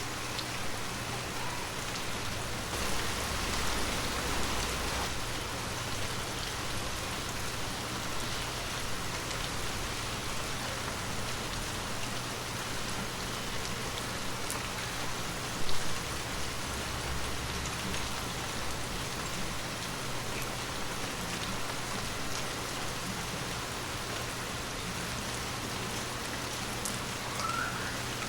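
Heavy rain falling steadily, an even dense hiss of drops on surfaces, with one brief louder thump about halfway through.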